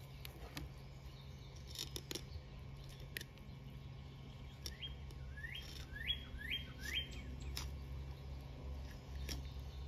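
A bird calls four quick rising notes about five seconds in, over scattered faint clicks and scrapes of a fillet knife working through a northern pike on a wooden board. A low steady hum runs underneath.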